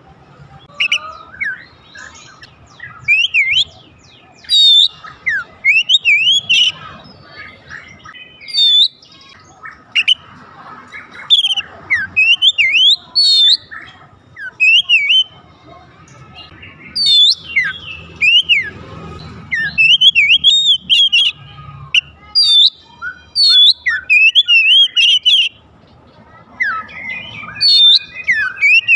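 Oriental magpie-robin (kacer) singing: loud phrases of quick, sliding whistled notes, one burst after another with short pauses between.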